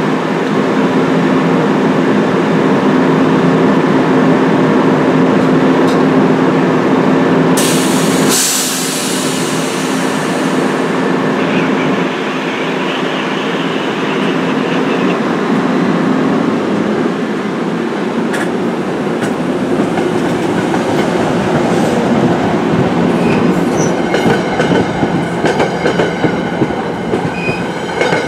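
NJ Transit diesel-powered commuter train of Comet V coaches standing at the platform with a steady hum, and a short loud hiss of air about eight seconds in. It then pulls out, and near the end its wheels click rapidly over the rail joints as the cars go by.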